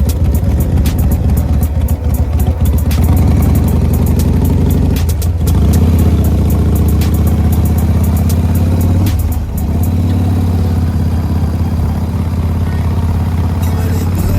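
Motorcycle engine running steadily under way on a test ride. The engine note dips briefly twice, about five and about nine and a half seconds in, then picks back up, with frequent sharp clicks throughout.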